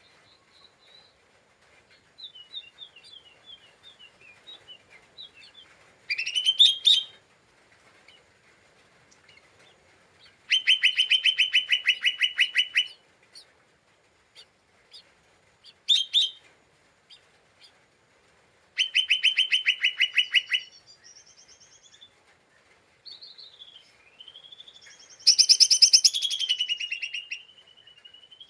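Cucak ijo mini, a small leafbird, singing and chattering: loud, rapid buzzy trills about two seconds long, short sharp upward sweeps, and softer twittering and whistled slurs in between. This is the 'ngeriwik' chatter of an excited, agitated bird.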